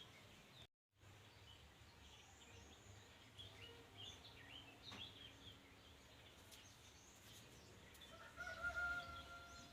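Faint outdoor rural ambience with scattered small bird chirps, then about eight seconds in a domestic fowl gives one long drawn-out call at a steady pitch. The sound cuts out completely for a moment near the start.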